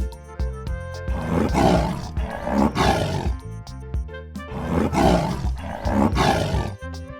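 A big cat's roar, a tiger sound effect, four roars in two pairs, over background music with a steady beat.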